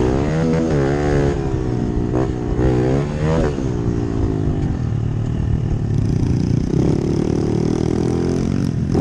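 Pit bike engine revving, its pitch rising and falling several times in the first few seconds as the throttle is worked, then settling to a steadier run near the end.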